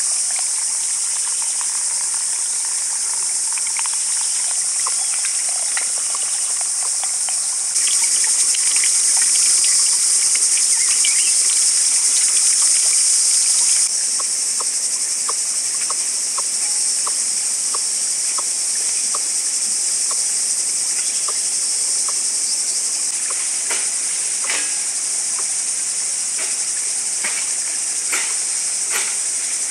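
Insects in the forest calling in a steady high-pitched drone, which turns abruptly louder from about eight seconds in to about fourteen. Light irregular clicks and ticks sound over it, more often near the end.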